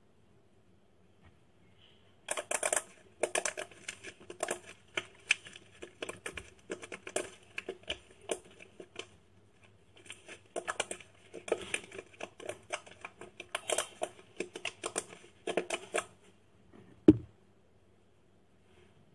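Slime being squeezed and poked by hand, making rapid, irregular clicking and crackling with short pauses, then a single loud thump near the end.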